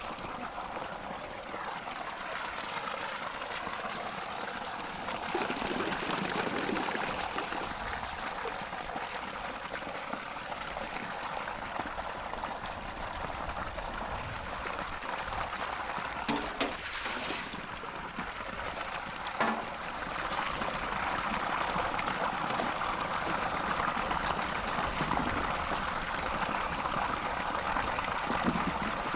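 Water trickling and splashing steadily, with a couple of light knocks past the middle.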